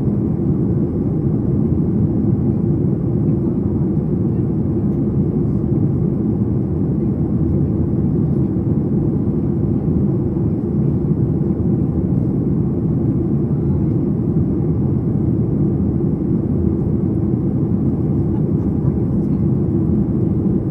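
Steady low cabin rumble inside a Boeing 737 MAX 8 in flight during descent: airflow and engine noise heard from a window seat, even and unchanging.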